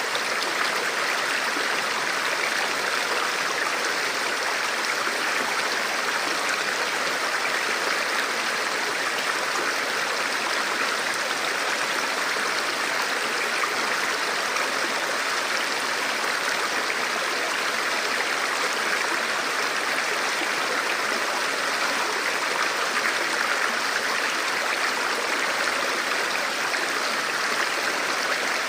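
A shallow river or stream flowing steadily over rocks, a continuous rushing babble.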